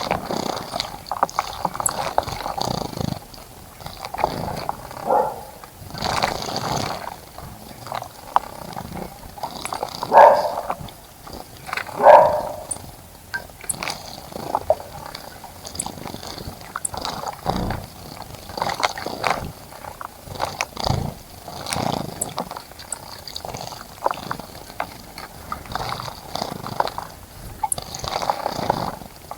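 Small birds splashing and fluttering their wings in a bird bath, in irregular bursts of flapping and spraying water, the two loudest about ten and twelve seconds in.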